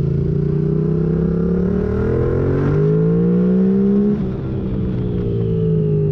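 Yamaha MT-07's 689 cc parallel-twin engine through a full MIVV exhaust with the catalyst removed and no dB killer. It accelerates hard with revs climbing, then the throttle closes about four seconds in and the revs fall away on the overrun.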